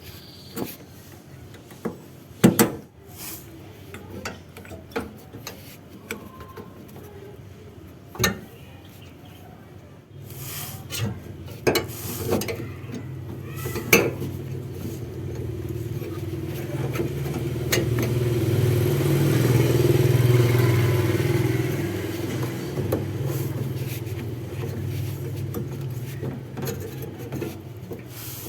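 Sharp metal clinks and knocks of hand tools. About ten seconds in, a low motor drone starts, grows louder toward the middle and then eases off.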